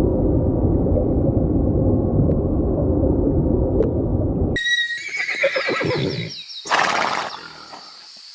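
A low, rough rumbling animal call for the first four and a half seconds, then a horse whinnying, with a short noisy blast like a snort about seven seconds in.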